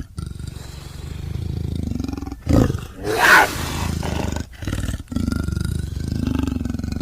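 Big-cat growling: low rumbling growls in several separate takes, with a loud roar about two and a half to three and a half seconds in.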